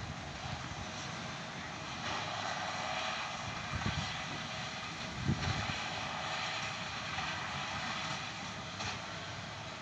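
John Deere tractor and large square baler working a straw field, heard from far off as a steady engine drone. A couple of brief low buffets of wind on the microphone about four and five seconds in.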